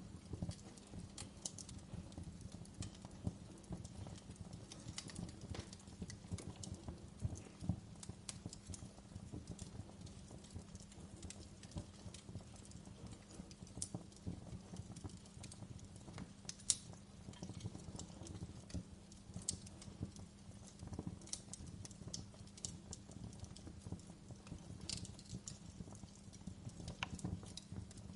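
Wood fire in a fireplace crackling: frequent irregular sharp pops and snaps over a low steady rumble of the flames, with one louder pop about two-thirds of the way through.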